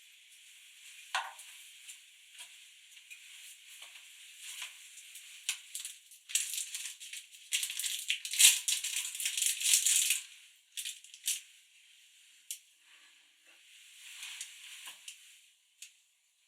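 Crunching footsteps: an irregular dry crackle, densest and loudest from about six to ten seconds in, then thinning out.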